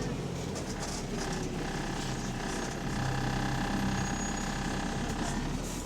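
Bus engine running, heard from inside the bus, with a low steady hum; from about a second and a half in, several steady higher tones sound over it, fading near the end. The bus has an exhaust leak.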